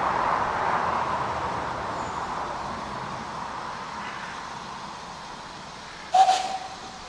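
A narrow-gauge steam train running as it pulls away, its steady noise slowly fading. About six seconds in there is a sudden short sharp sound with a brief hooting tone.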